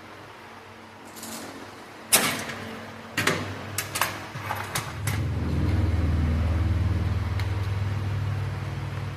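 A handful of sharp knocks and clatters from parts being handled, then a low engine rumble that starts about halfway through, swells and slowly fades, like a motor vehicle going by.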